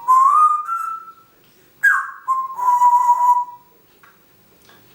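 African grey parrot whistling two phrases: the first a tone rising slowly at the start, the second, about two seconds in, sliding down and then holding steady for over a second.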